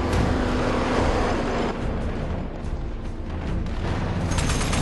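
Film battle soundtrack: a heavy boom with a long fading rush in the first couple of seconds, over music and a steady low rumble. Near the end, fast automatic gunfire starts.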